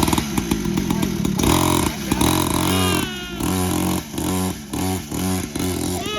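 Small 50cc dirt bike engine revving unevenly as the throttle is opened and let off again and again, its pitch jumping up and dropping back every half second or so.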